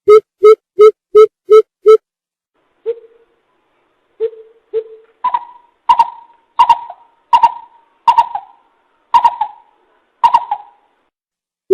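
Coucal (bìm bịp) calling. A fast series of deep hoots, about three a second, stops about two seconds in. After a pause come a few single low notes, then a slower run of higher notes, about one every 0.7 seconds, each falling off at the end.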